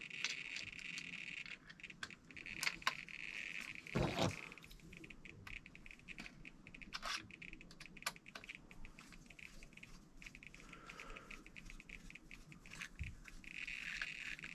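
Light clicks, taps and small rattles of hard parts and tools being handled on a workbench, with a heavier thump about four seconds in. A steady high hiss-like buzz sits in the background at the start and again near the end.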